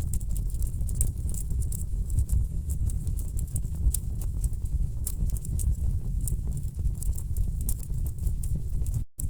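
Wood fire crackling: irregular sharp pops and snaps over a steady low rumble of burning logs. The sound drops out for a split second near the end.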